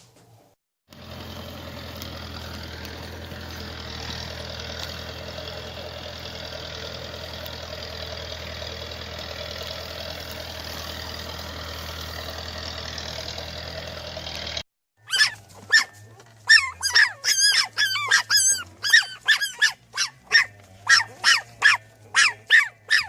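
A vehicle engine runs steadily for about fourteen seconds and then cuts off abruptly. A dog follows, barking in rapid, short, high yaps.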